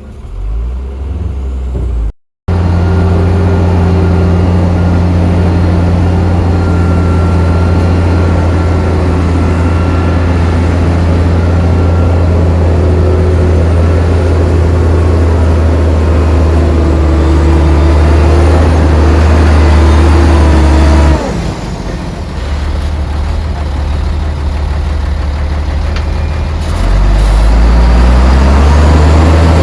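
Heavy diesel earthmoving machinery running hard and steadily at a sand-loading job. The engine note drops suddenly about two-thirds of the way through, then climbs back up near the end as the machine works again.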